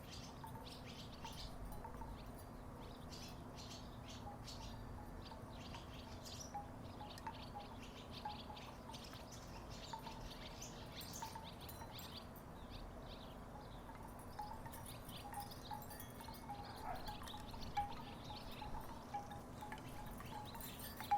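Wooden tiki wind chimes knocking together in the breeze: irregular soft clacks with short ringing tones, over a steady low hum.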